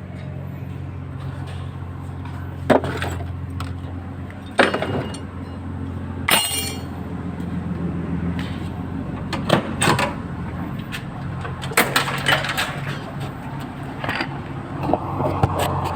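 Metal tools and parts clinking and knocking as truck parts are worked on: scattered sharp clanks, one ringing briefly about six seconds in, over a steady low hum.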